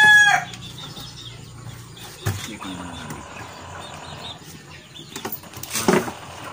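The tail of a rooster's crow ends about half a second in. Then come faint rustling and a few light knocks from handling the cardboard box and the wire threaded through it.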